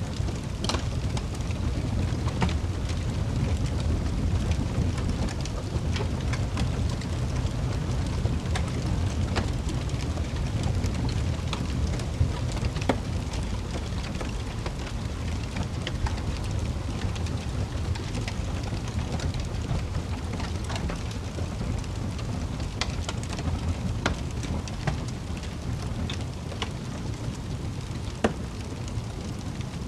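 Wood fire crackling in a fireplace: a low, steady rumble of the burning fire with irregular sharp crackles and pops, two of them louder, about twelve seconds in and near the end.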